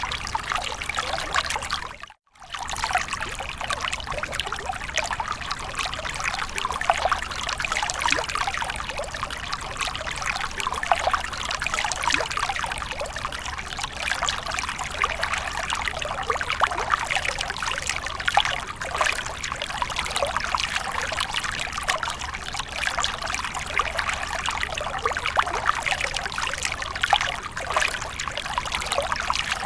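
Water splashing and trickling continuously, a dense patter of small splashes. About two seconds in, the sound cuts out for a fraction of a second and resumes.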